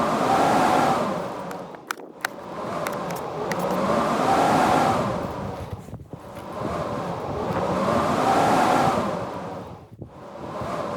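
Storm wind gusting in waves about every four seconds, each gust swelling to a howling whistle that rises and falls before dying away, with a few sharp clicks about two seconds in.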